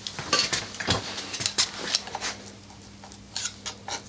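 Irregular light metallic clicks and taps of hand tools working at the baffle inside a titanium exhaust silencer, as it is prised loose.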